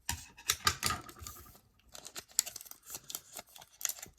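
Yu-Gi-Oh! booster packs and trading cards being handled: a quick irregular run of crinkles, snaps and rustles from the foil wrapper and the cards.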